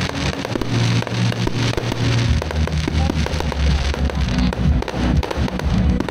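Firework shells bursting and crackling in the sky over show music played through the park's PA system, with sustained low bass notes.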